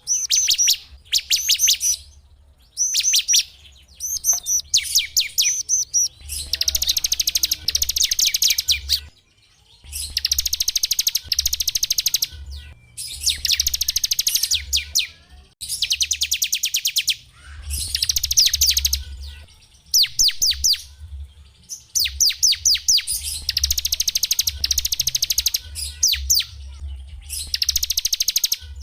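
Small songbird singing in fast trilled phrases of rapidly repeated high notes, each phrase one to two seconds long with short breaks between, over a steady low hum.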